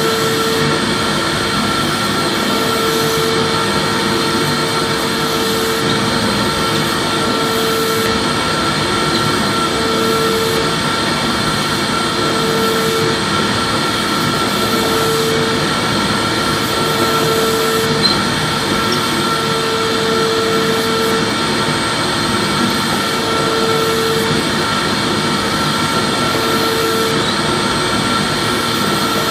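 Vacuum cleaner running steadily: an even rushing noise with a high whine. A lower hum under it swells and fades about every two seconds, and there is one small tick about 18 seconds in.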